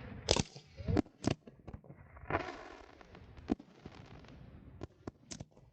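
Fireworks going off: a string of sharp bangs, with a stretch of hissing crackle about two to three seconds in.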